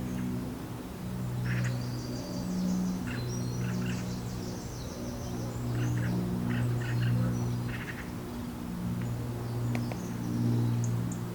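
Small birds chirping in short runs of quick high notes several times, over a louder low hum that swells and fades.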